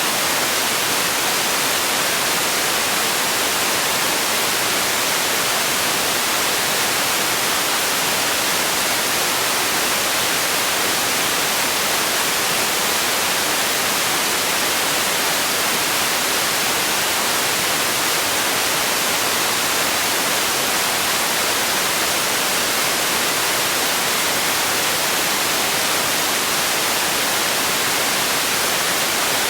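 Steady white-noise hiss from a generated noise track, even and unchanging, stronger in the treble than in the bass.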